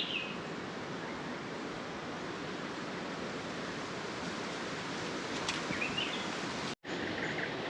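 Strong wind rushing steadily over the microphone, with a couple of short bird chirps near the start and about six seconds in. The sound drops out completely for a moment near the end.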